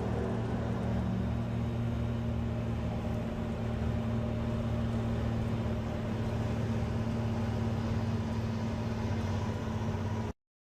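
Heavy vehicle engine running steadily with an even, low hum, cutting off abruptly near the end.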